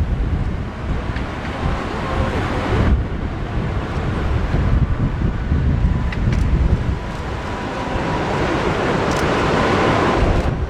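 Strong wind buffeting the microphone, over the jet noise of an approaching Airbus A380 with four Rolls-Royce Trent 900 turbofans: a faint steady whine under a rushing sound that grows louder toward the end.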